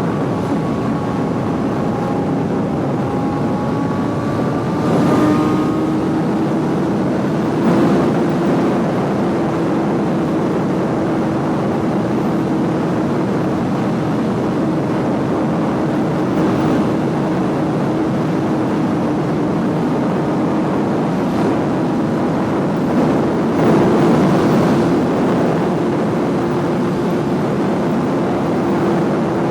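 Suzuki GSX-R sportbike engine running at a steady cruise under heavy wind rush. The pitch shifts in the first few seconds, then holds level, with a few brief swells.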